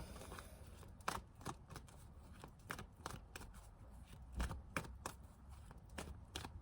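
A deck of tarot cards being shuffled by hand, faint and irregular short taps and snaps of the cards.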